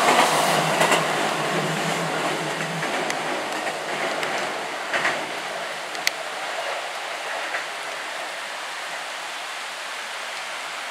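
A JR West 227 series electric train running past and fading as it goes away, its rumble giving way to a steady hiss of heavy rain. A sharp click comes about six seconds in.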